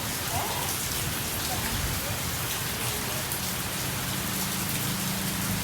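Heavy rain falling steadily, a dense even hiss of drops on the ground and surfaces. A low steady hum joins about three and a half seconds in.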